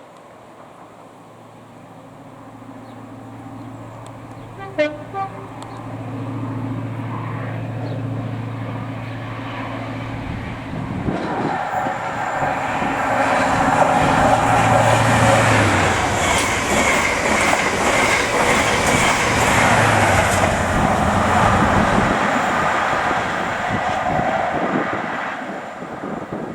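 A diesel train approaching with a steady low engine note, giving a brief toot on its horn about five seconds in, then passing through the station at speed with loud wheel and rail noise that builds, holds for about ten seconds and fades near the end.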